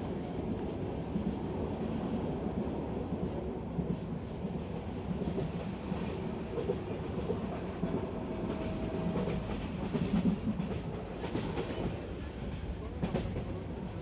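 Bangladesh Railway passenger train running along the track: a steady rumble of wheels on rails, with a few sharper clicks near the end.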